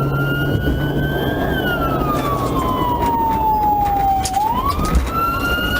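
Police car siren in a slow wail. Its pitch climbs for about a second and a half, falls slowly for nearly three seconds, then starts climbing again near the end, over steady road noise.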